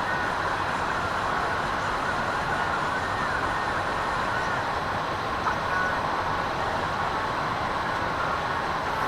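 AvionRC Ikon 2.5-inch FPV quadcopter flying, its motors' whine wavering up and down with the throttle over a steady rushing noise.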